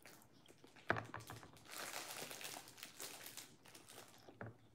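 Faint crunchy, crinkly chewing of toast and scrambled egg close to the microphone, with a sharp click about a second in.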